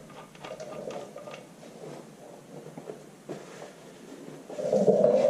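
Hand-work handling noise: light scattered clicks and scratching, then a louder scratchy rustle from about four and a half seconds in.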